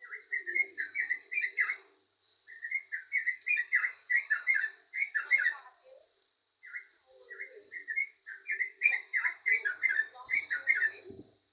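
Yellow-vented bulbul singing in full voice: three runs of quick, bubbly repeated notes with short pauses between them. A faint steady high tone runs underneath.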